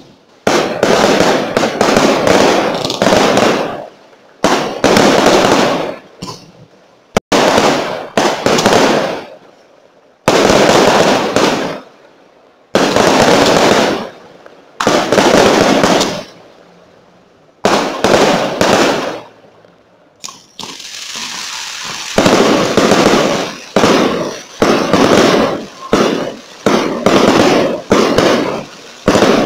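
Fireworks display going off: loud bangs in quick clusters, each dying away over a second or so, with short quieter gaps between them. In the last third the bangs come faster in an almost unbroken run.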